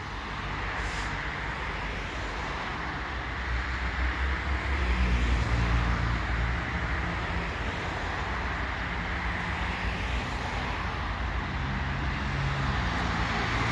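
CPKC Holiday Train passing: a steady rumble of rail cars with a diesel locomotive engine droning under it, the drone getting stronger about five seconds in.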